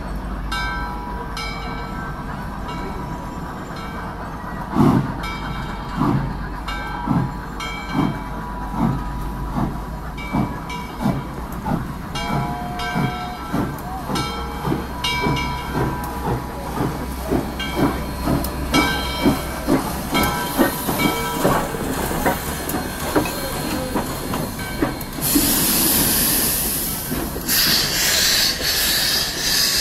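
Freight train rolling past, its wheels knocking in a steady rhythm over the rail joints above a low rumble. A loud hiss comes in about 25 seconds in and again near the end.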